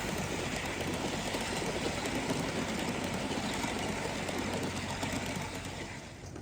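Gauge 1 live-steam model locomotive running along the track, its sound fading near the end as it moves away.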